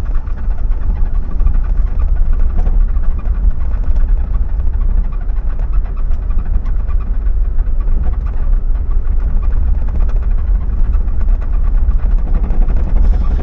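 A vehicle being driven: a steady, loud low rumble of engine and road noise, with a few faint knocks.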